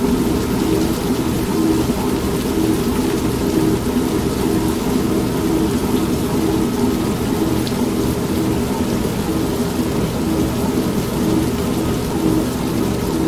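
Steady rain with a low thunder rumble, mixed with an old manual washing machine running continuously.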